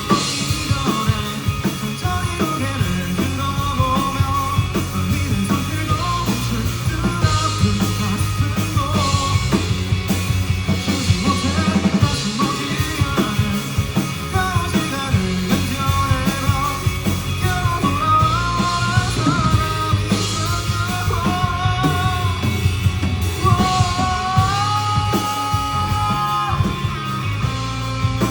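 Live rock band playing a song: drums, bass and guitars, with a melodic lead line that holds long notes near the end.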